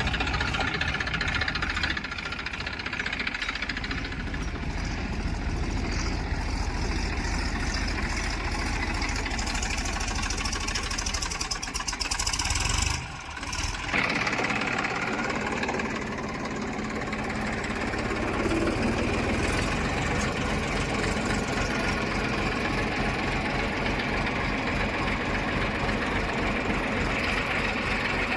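Diesel engine of heavy machinery running steadily. There is a short break about halfway through, after which the engine sound changes.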